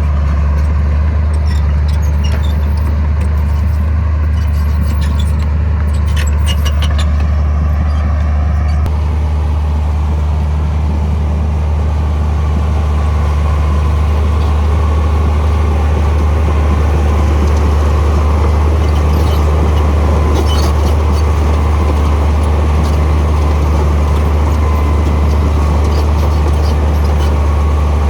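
Heavy diesel engine of earthmoving machinery running steadily with a deep, constant drone. A higher whine wavers in pitch over it and stops about nine seconds in, and a few light clicks come through early and again about twenty seconds in.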